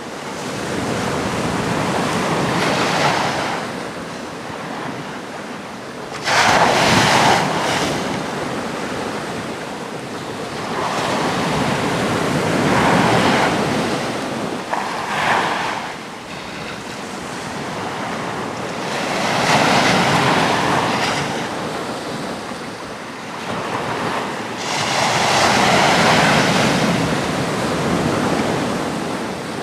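Atlantic surf breaking on a rocky shore, the wash swelling and falling in about five surges, the sharpest break about six seconds in. Wind buffets the microphone.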